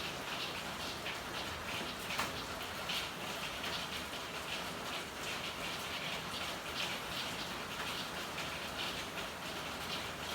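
Steady rain falling in an alley, with many irregular drips and taps of drops striking hard surfaces; one sharper tap about two seconds in.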